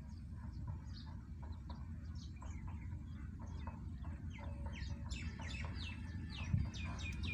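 Birds chirping: many short, quickly falling notes that come thicker from about five seconds in, over a steady low rumble, with one dull thump near the end.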